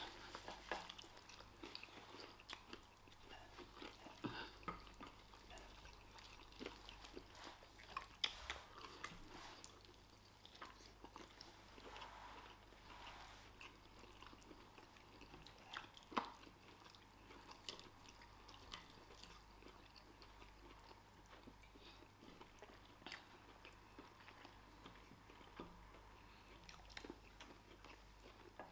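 Faint chewing and mouth sounds of people eating a meal, with scattered small clicks and ticks.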